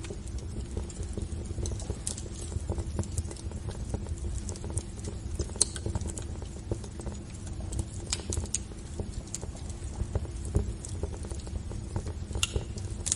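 Fire burning in a fireplace: a low steady rumble with irregular crackles and a few sharper pops.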